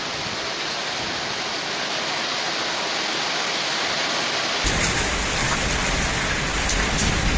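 A hailstorm with heavy rain, pelting down in a steady hiss. About two-thirds of the way through the sound changes abruptly: a low rumble joins in, along with a few sharp ticks of stones striking.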